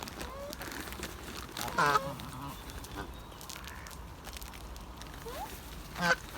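Waterfowl calling: one loud call about two seconds in and another near the end, with a few short, faint calls between.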